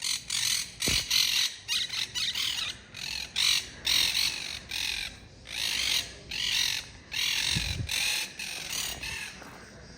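Wild monk parakeets squawking and chattering: many short, harsh calls in quick succession, several a second, dying down near the end.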